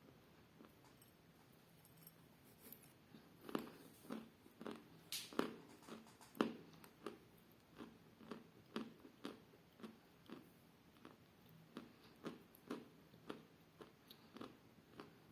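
Chalk being bitten and chewed: a run of short crunches about two a second, starting a few seconds in, loudest early on and then carrying on steadily.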